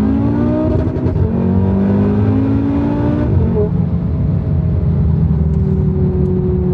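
Turbocharged five-cylinder engine pulling hard under full throttle, heard from inside the car: its pitch climbs, drops at an upshift about a second in and again about three seconds in, then holds steadier. The upshifts crack sharply.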